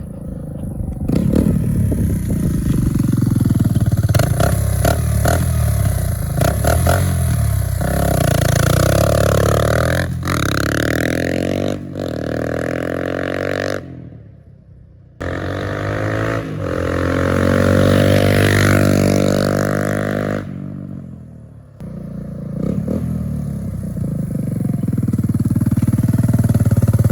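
Suzuki DR200S single-cylinder four-stroke engine running through its new exhaust pipe, revving up twice with rising pitch. The sound falls off sharply about halfway through and again about three-quarters of the way in, then picks back up.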